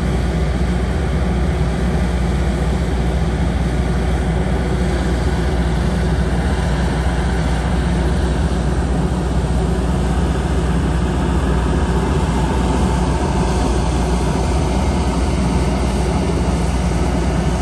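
Diesel engine of a skid steer running steadily at working revs, a constant low drone.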